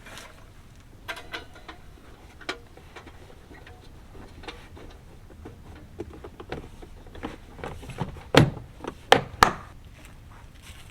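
Scattered light clicks and knocks, with three sharper knocks close together near the end.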